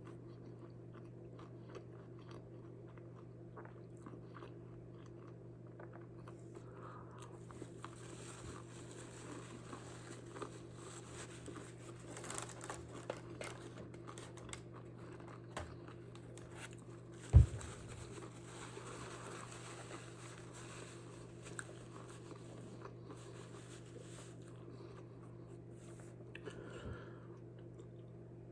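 A person biting and chewing food with small crunches, over a steady low hum. One sharp knock about 17 seconds in.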